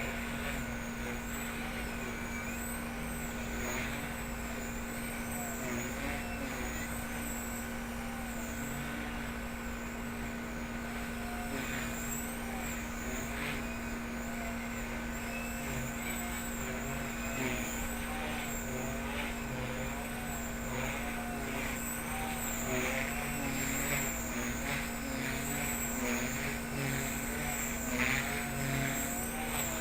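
Blade 130 X electric RC helicopter in flight: a steady motor-and-rotor whine whose pitch wavers up and down as it is flown, growing a little louder near the end.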